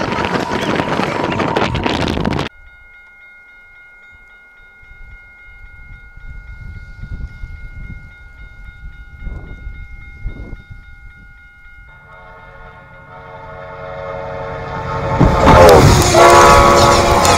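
A train running through deep snow makes a loud rushing noise, which cuts off sharply about two and a half seconds in. Then a level-crossing warning bell rings steadily. From about twelve seconds a train horn sounds and grows louder, and near the end the train passes the crossing with a loud rush of blown snow.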